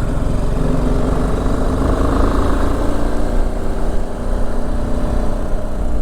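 Motorcycle engine running under way, its note shifting slightly in pitch, with a steady rush of wind noise.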